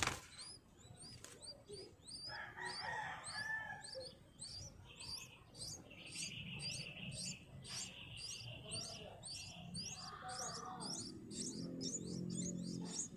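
Bird chirping: a fast, even run of short high chirps, about three a second, with other fuller bird calls breaking in now and then.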